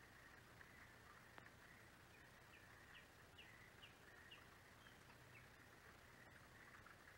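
Faint bird calling: a series of about nine short, downslurred high notes at roughly three a second, over a steady faint hiss.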